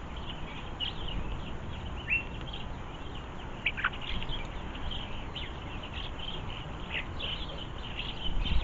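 Small garden birds twittering with many quick high chirps and a couple of sharp downward-sliding calls, over a steady low rumble of storm wind on the microphone.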